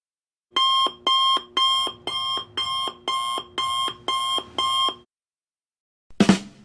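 Alarm clock sound effect: nine ringing electronic alarm pulses, about two a second, that stop abruptly. About a second later, near the end, comes one sudden loud hit.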